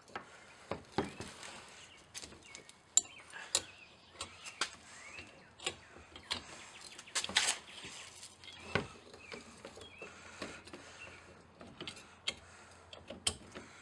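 Irregular sharp metallic clicks and clinks: an angle grinder's spanner wrench, with a long steel bar welded on, shifting and knocking against the grinder as it is strained against a seized disc flange nut.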